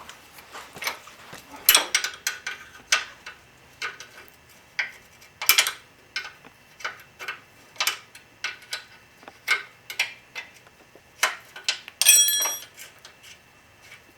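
Steel wrenches clicking and tapping against a suspension-linkage nut and bolt as it is worked loose: irregular sharp metallic clicks, one or two a second, with one brighter ringing clank near the end.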